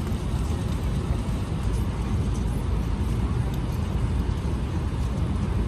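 Steady cabin noise of an Airbus A380-842 in flight: an even rumble of its Rolls-Royce Trent 900 engines and airflow, heaviest in the low end.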